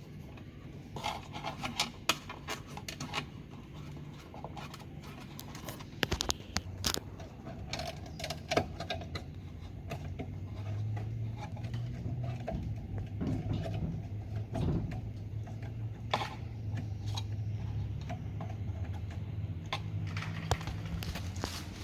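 Scattered clicks, taps and scrapes of hands and tools working on a washing machine's motor assembly during reassembly, over a low steady hum.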